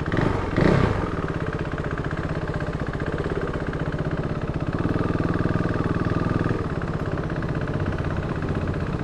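Motorcycle engine running steadily close by, with a fast, even pulsing beat.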